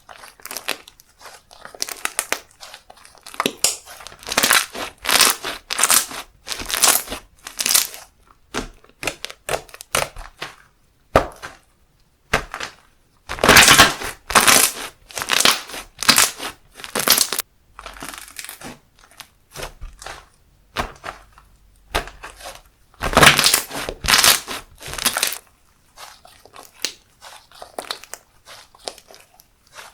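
Hands playing with slime, making a run of short, crisp noisy bursts with brief quiet gaps between them, loudest around the middle and again about three-quarters through.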